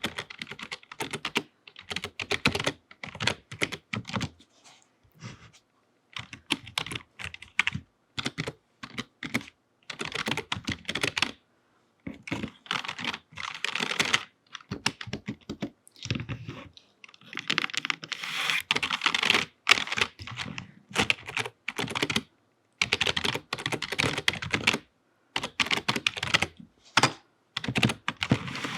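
Typing on a computer keyboard: rapid runs of key clicks in bursts of a second or two, broken by short pauses.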